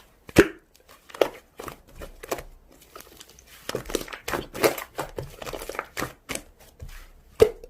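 Slime being squeezed and pulled by hand, giving irregular crackling clicks and small pops.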